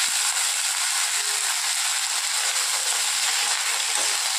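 Cauliflower florets sizzling as they fry in hot oil in a kadai: a steady hiss.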